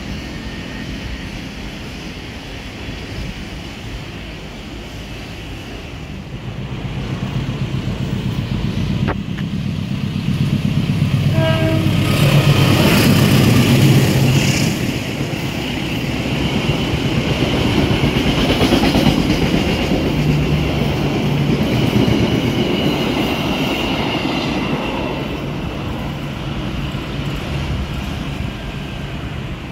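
A KAI passenger train passing close by on the rails: the rumble of wheels on track builds, peaks as the coaches go past with a clattering over the rail joints, then dies away near the end. A short horn sounds just before the loudest part.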